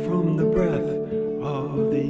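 A man singing a slow song over an acoustic guitar.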